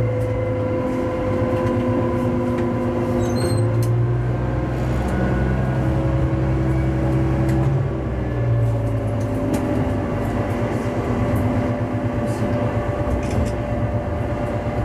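Diesel railcar running between stations: a steady engine drone with a whine from the drive that rises slowly in pitch, and a few light clicks from the wheels on the track.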